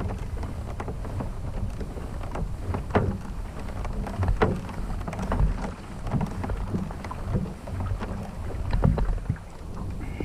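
Kayak moving on the water: a steady low rumble of wind on the camera microphone, with irregular knocks and splashes against the hull.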